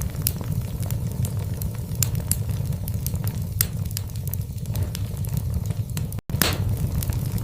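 Wood fire burning in a fireplace: irregular crackles and pops over a steady low rumble, with a brief dropout to silence about six seconds in.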